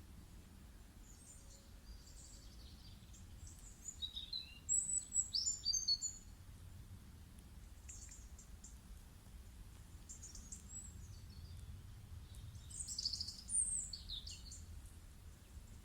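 Small birds chirping and trilling in short bursts, loudest about four to six seconds in and again near the end, over a faint steady low hum.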